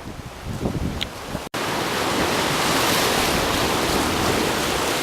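Wind buffeting the microphone in gusts. About a second and a half in, after a brief dropout, a steady rush of surf and wind takes over.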